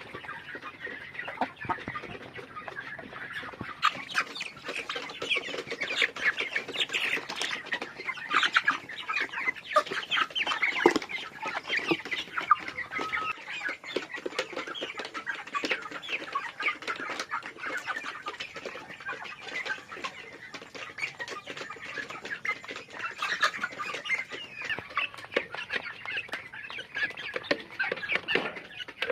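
A flock of chickens clucking, with many short calls overlapping in a busy, continuous chatter.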